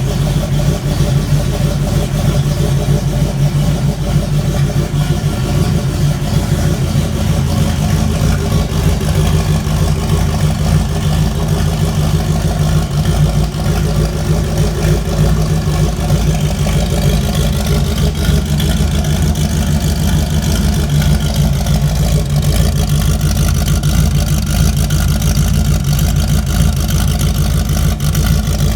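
Turbocharged Fox-body Mustang engine idling steadily, warming up after a cold start.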